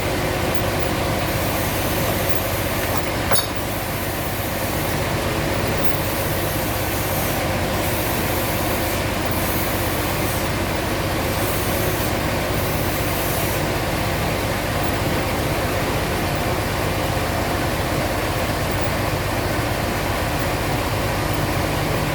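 Sawmill machinery running steadily with a constant hum, and a single sharp click about three seconds in.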